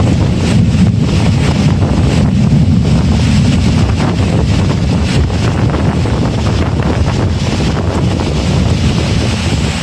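Wind buffeting the microphone: a loud, steady, flickering rumble with a fainter hiss above it.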